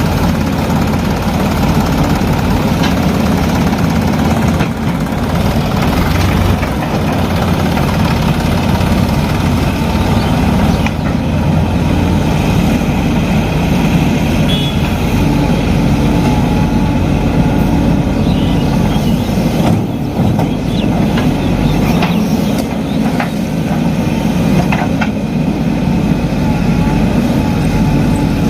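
Heavy diesel engine running steadily, with a few short knocks.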